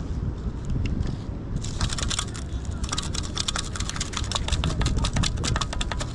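Rapid gritty clicking and rattling of wet beach sand being shaken out of a sand scoop to free a find, over a steady low rumble.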